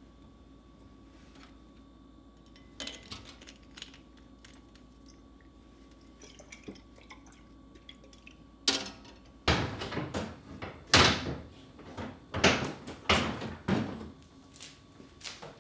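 Kitchen cleaning and handling sounds: a light clatter, a sharp knock about nine seconds in, then a string of short, loud, noisy bursts over the next few seconds.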